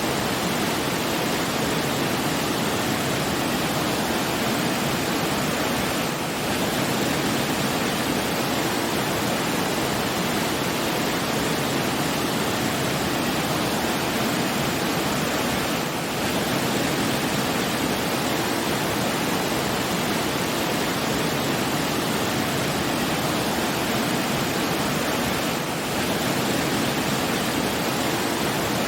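Steady rushing water like a waterfall, an even hiss with no distinct splashes. The level dips slightly and briefly about every ten seconds.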